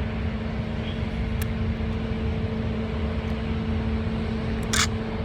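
Steady mechanical hum over a low rumble, like an engine or motor idling, with two short clicks: one about a second and a half in and one near the end.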